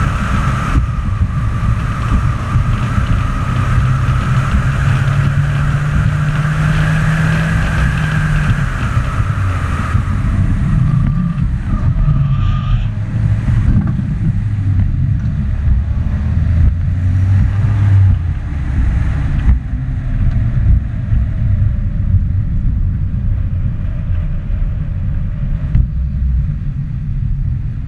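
Mazda Miata's four-cylinder engine running hard through an autocross course, its note held steady for several seconds, then dropping lower and becoming more uneven as the car brakes and turns, over constant wind and road noise.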